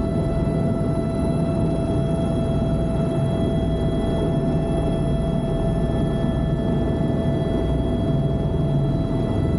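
Helicopter running with a steady, unbroken drone and a constant high whine over it.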